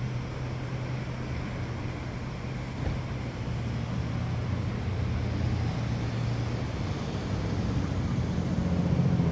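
Parked police SUV's engine idling: a steady low hum, swelling slightly near the end.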